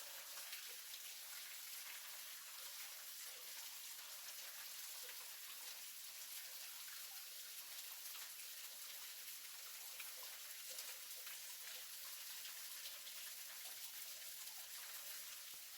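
Small waterfall: water falling and splashing into its pool as a steady, even hiss.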